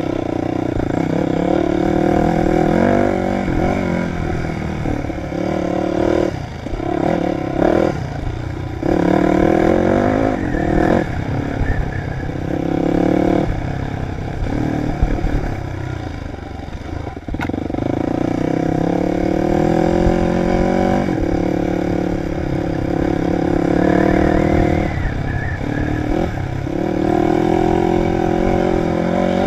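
Dirt bike engine being ridden hard, its pitch climbing and dropping again and again every few seconds as the throttle opens and closes.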